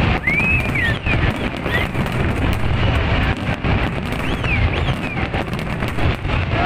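Fireworks display: a continuous low booming and crackling from many shells bursting together, with short high whistles rising and falling over it.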